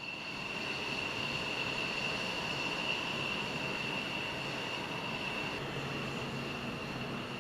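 Jet aircraft engine running with a steady high-pitched whine over a broad rush of noise.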